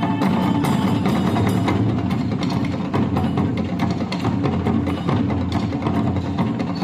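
Traditional Japanese percussion music: many quick, dense drum strokes mixed with sharp wooden clacks.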